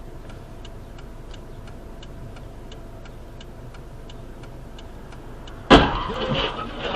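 Car driving, heard from inside: a steady low road rumble with a regular ticking about three times a second. Near the end a sudden loud crash as the car is hit, followed by a second or so of crunching and scraping.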